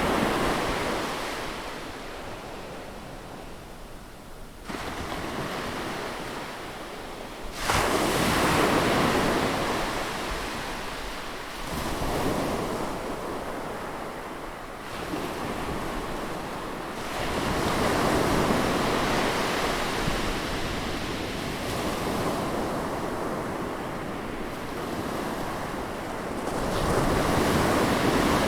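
Atlantic Ocean surf breaking on a beach, with waves surging and washing in every few seconds. The largest breaks come about eight seconds in and near the end.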